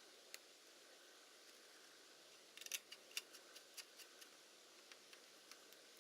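Faint, sharp little clicks and taps of small hard parts or tools being handled: one early, then a quick run of clicks in the middle and a few scattered ones near the end.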